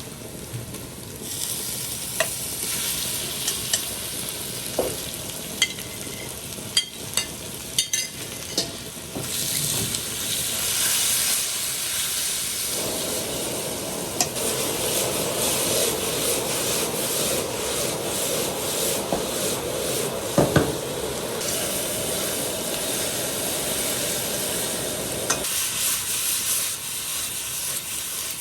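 Stingray pieces stir-frying in a hot pan: a steady sizzle as the food is tossed and stirred, with the utensil clicking against the pan several times early on and knocking twice about twenty seconds in.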